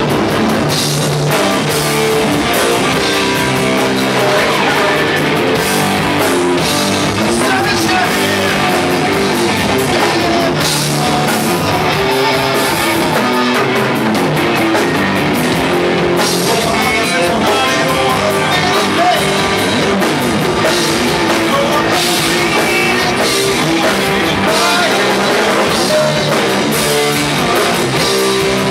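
Live rock band playing an instrumental passage: electric guitars over a drum kit.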